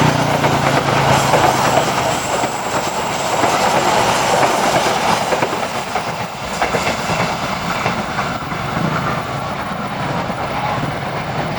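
A train rolling past: a steady rush of wheel and rail noise with the clack of wheels over rail joints.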